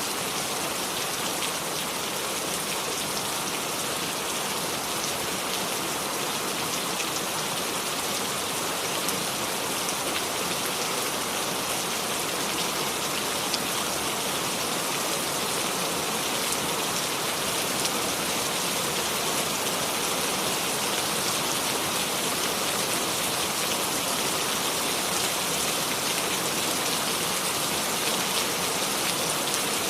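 Steady rain falling, a dense even patter of drops on surfaces with no thunder.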